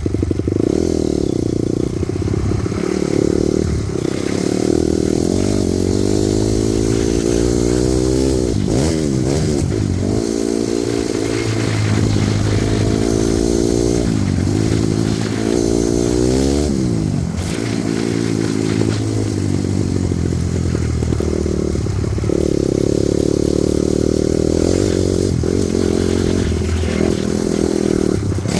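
Honda CRF250R dirt bike's single-cylinder four-stroke engine running under riding load. The pitch climbs and drops again and again through the middle as the throttle is worked and the bike changes gear, and runs steadier near the start and near the end.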